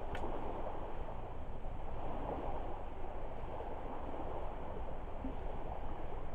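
Driftwood campfire burning steadily, with one small pop just after the start, against a constant low wash of water lapping at a lakeshore.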